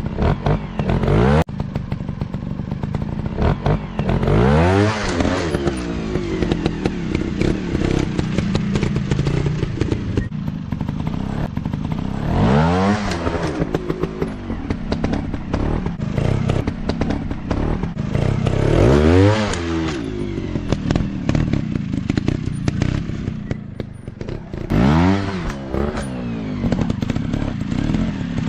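Dirt bike engines running and revving up and dropping back about four times, with clattering and knocks.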